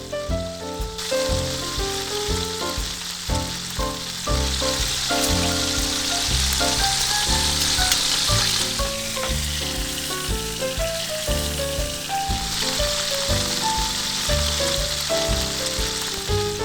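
Steak and shrimp sizzling in a buttered frying pan, starting about a second in, over background music.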